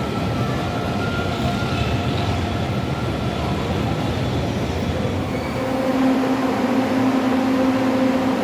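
LRT Line 2 train running on the rails, a steady rumble with thin high whining tones from the wheels. About five and a half seconds in, a steady low hum joins it.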